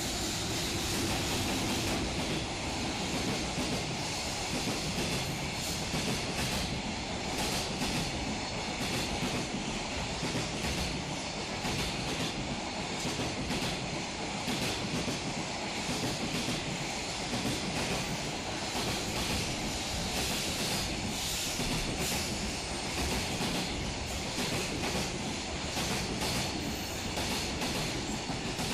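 Container freight train rolling past: a long steady rush of steel wheels on rail, with repeated clickety-clack from the wheels crossing rail joints.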